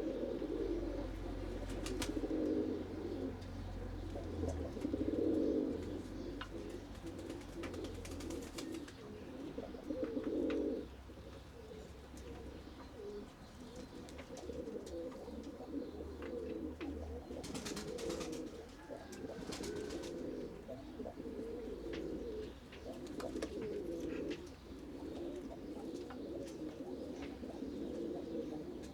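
A flock of pigeons cooing continuously, overlapping low coos, with scattered sharp clicks and a couple of brief rustling bursts, likely birds pecking and flapping.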